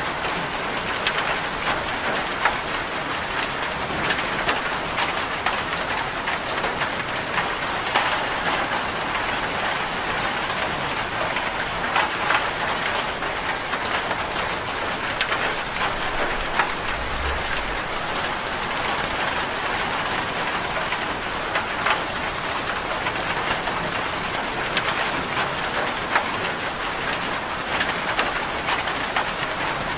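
Steady rain falling on a surface, with scattered sharp clicks of individual drops throughout.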